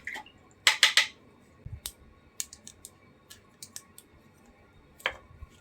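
Art supplies being handled on a work table while paints are set out: scattered clicks and taps, loudest a little under a second in and again near the end, with lighter ticks between.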